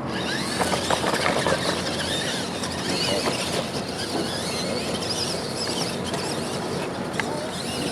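Radio-controlled monster trucks racing, a high whine rising and falling over a steady noisy running sound.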